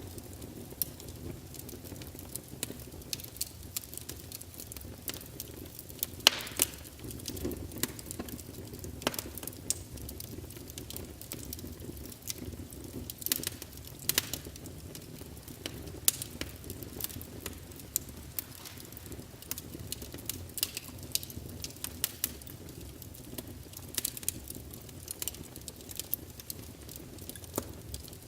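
Wood logs burning in a fireplace: a steady low rumble of the flames with frequent sharp crackles and pops, one louder pop about six seconds in.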